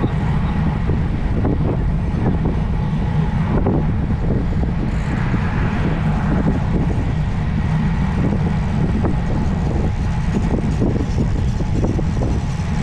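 Steady wind rushing over the microphone of a road cyclist riding at speed, a heavy low buffeting that runs without letup.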